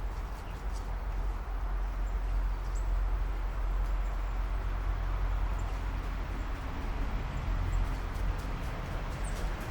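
A few faint, short, high bird chirps scattered over a steady low rumble, which is the loudest thing heard.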